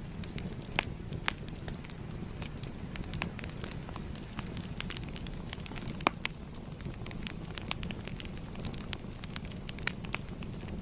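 Wood fire burning, with a steady low rumble under irregular sharp crackles and pops; one pop about six seconds in is the loudest.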